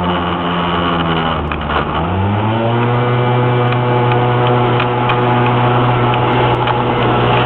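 An old car's engine heard from inside the cab, pulling up a steep hill. Its note sags slowly for the first two seconds, then rises quickly and holds a steady, higher pitch as it climbs.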